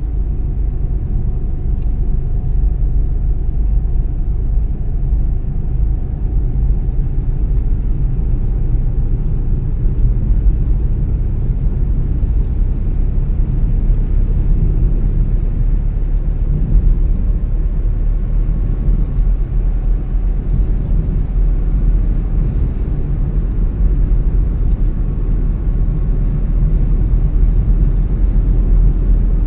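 A car driving at a steady pace: a continuous low rumble of tyres on the road and the engine, with a faint steady whine above it.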